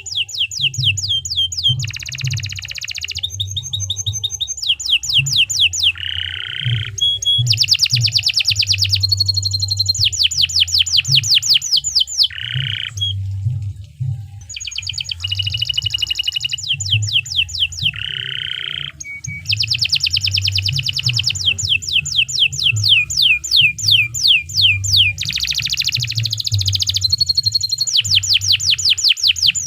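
Domestic canary singing a long, continuous song of rapid trills and rolls, switching to a new repeated-note phrase every second or two, with a few lower buzzy notes between them.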